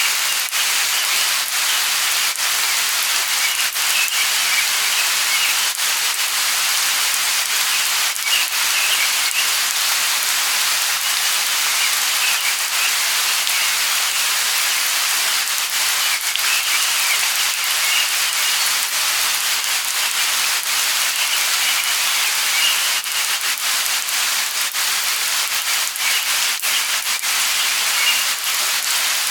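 Steady light rain: a dense hiss of rainfall full of small drop ticks, with faint bird chirps coming and going.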